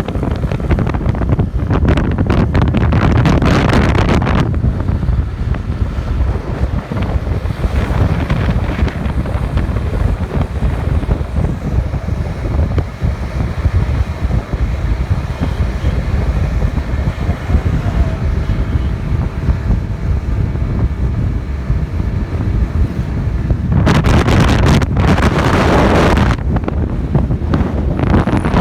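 Wind buffeting the microphone on a moving motorcycle, over a low rumble of engine and road noise. The wind surges louder in the first few seconds and again near the end.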